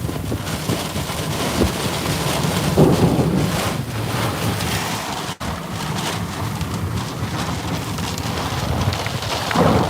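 Heavy, wind-driven rain beating on a truck, a loud steady downpour with gusting wind, broken by a split-second dropout about five seconds in.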